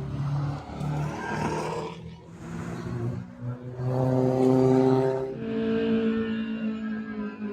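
Car engines revving hard as cars accelerate around a track, pitch climbing through the gears. The level dips about two seconds in, then an engine pulls hard and steady again from about four seconds in.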